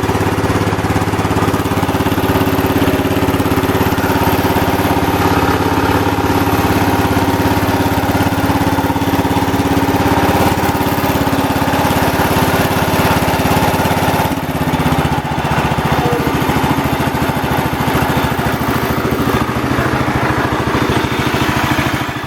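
Kohler K321 14 hp single-cylinder engine of a 1970 Wheel Horse GT-14 garden tractor running steadily, freshly rebuilt with a new piston and rings and running smoothly. Its note dips briefly and shifts slightly about two-thirds of the way through.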